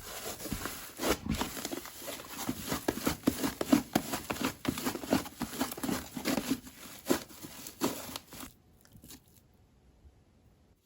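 Slime being squished, stretched and poked by hand, giving a dense run of small sticky clicks and pops that thin out and stop about nine seconds in.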